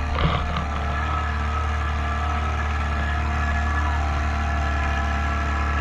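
Motorboat engine running steadily at an even speed, with a few light knocks in the first half-second.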